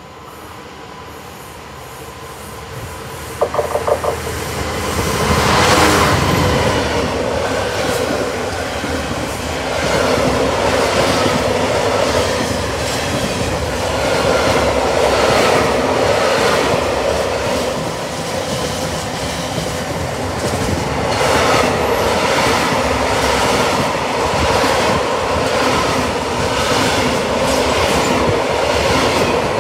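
A Freightliner Class 66 diesel locomotive approaching and passing, growing louder to its loudest about six seconds in. A long train of container flat wagons then rolls past with a steady clickety-clack of wheels over rail joints and a thin, steady wheel squeal.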